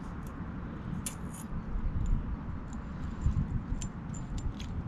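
Light metallic clicks and clinks of small carburetor parts being handled as the throttle slide and its jet needle are fitted back into the carburetor, over a steady low rumble.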